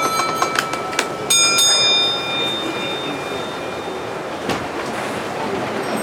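A bell is struck a few times, the last ring, about a second in, fading away over two or three seconds, over a steady background hubbub.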